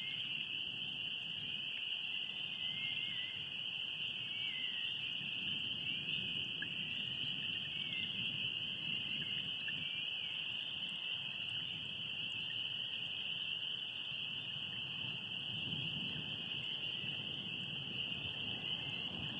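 A night chorus of calling animals, typical of frogs or insects by a lake: one continuous high-pitched chorus with faint wavering calls just beneath it, over a soft low rumble.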